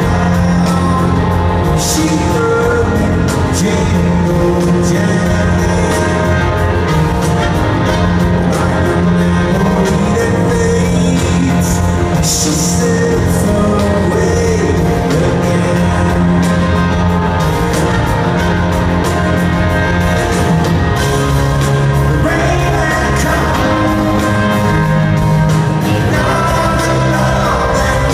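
Live rock band playing a song, with sustained guitar and bass chords and singing over it; the voice stands out more in the last few seconds.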